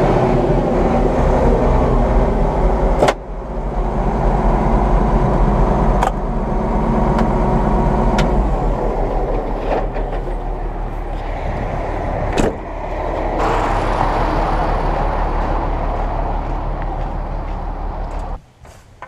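John Deere 9500 combine running steadily under load, with a few sharp clicks along the way; the sound drops away abruptly near the end.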